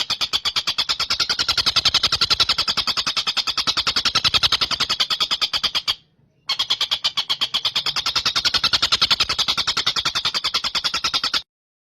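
Tengkek buto kingfisher giving a fast, even, high-pitched rattling trill of roughly a dozen notes a second, in two long runs separated by a half-second break about six seconds in.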